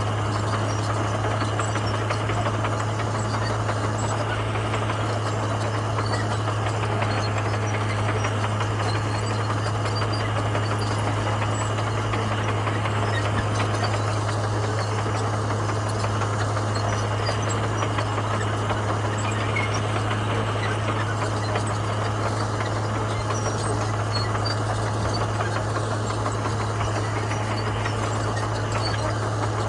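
Komatsu bulldozer's diesel engine running steadily, a constant low drone with no change in pitch or level.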